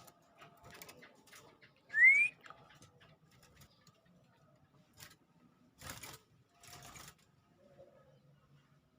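A female canary gives a single short, rising 'cuit' chirp about two seconds in, the call used to stir male canaries to sing. A few faint taps follow later.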